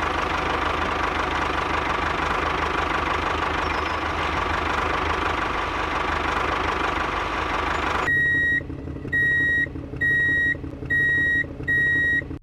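Small electric motor and gearbox of a DIY mini model tractor running with a steady, rattly buzz. About eight seconds in it cuts off, and five high electronic beeps follow, about a second apart, like a reversing alarm, over a low hum.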